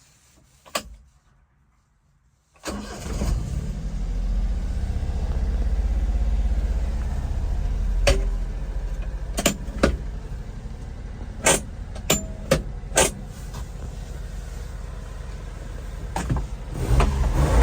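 A 1997 Honda Acty kei truck's small three-cylinder engine starting about two and a half seconds in, then running at idle, with several sharp clicks in the middle; near the end the revs rise and it gets louder.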